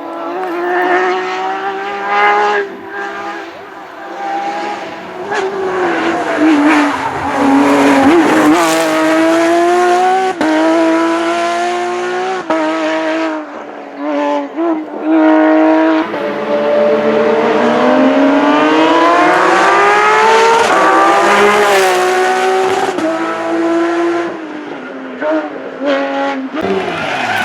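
Porsche GT3 rally car's flat-six engine driven hard, its note climbing steeply through each gear and dropping back at every shift, with several brief lifts off the throttle.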